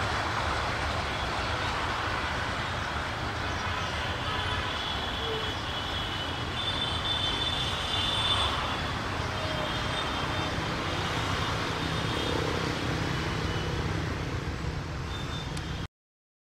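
Steady low rumble of a passenger express train moving away down the line, mixed with general urban background noise. The sound cuts off suddenly near the end.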